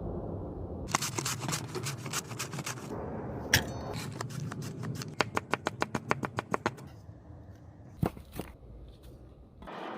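Knife chopping on a cutting board: sharp strokes, first in an uneven flurry, then a fast even run of about seven chops a second, with a few single strokes after.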